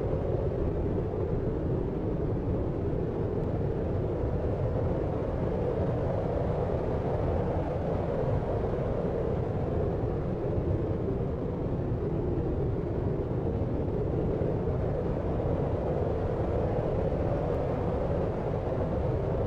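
Steady deep noise of a brown-noise sleep track, strongest low down with a mid band near 500 Hz, unchanging and without any distinct events.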